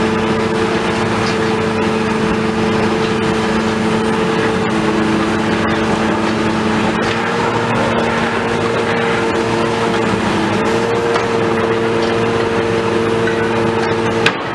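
Heavy diesel demolition machinery running steadily, a constant engine drone whose pitch shifts slightly a couple of times.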